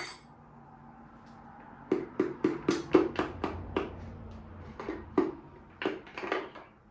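Hammer knocking a piston and connecting rod out of a cylinder bore in a Chrysler 360 (5.9 L) Magnum V8 block. About a dozen sharp metallic knocks begin about two seconds in, quick at first, then slowing and spacing out toward the end.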